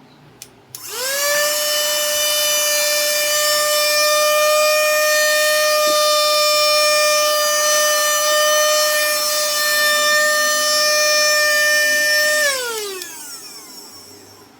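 Mini handheld vacuum cleaner switched on with a click. Its small motor spins up to a steady high-pitched whine. About twelve seconds in it is switched off, and the whine winds down with falling pitch.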